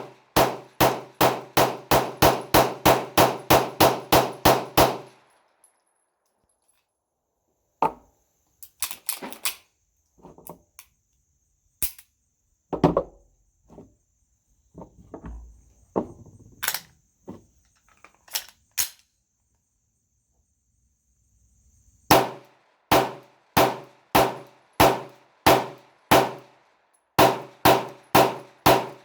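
9mm pistol fire: a rapid string of about fourteen shots at roughly three a second, then a pause holding scattered single shots and knocks. Two more quick strings of shots follow near the end.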